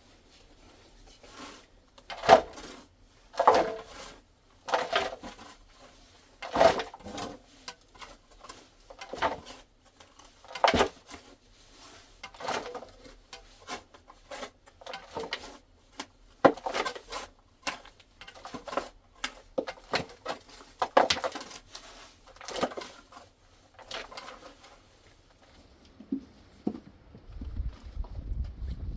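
A series of separate knocks and clatters at irregular spacing, roughly one every second or so, as of objects being handled or struck. A low rumble comes in near the end.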